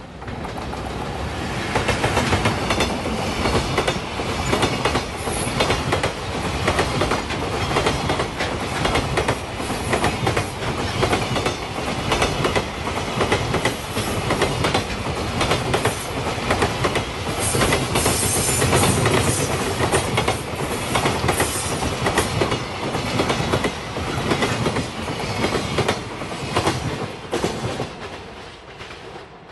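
JR Freight EF210 electric locomotive and a long train of container wagons passing close by, wheels clattering rhythmically over the rail joints. The noise rises as the locomotive arrives about a second in and fades as the last wagon goes by near the end.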